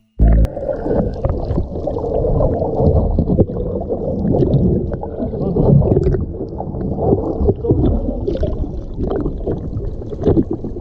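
Muffled, uneven rumbling and sloshing of water around a boat at sea.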